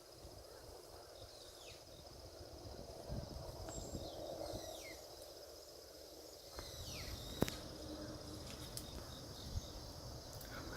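Forest ambience: a steady high insect trill, with several short downward-sliding bird calls and one sharp click about seven seconds in, over a low rumble.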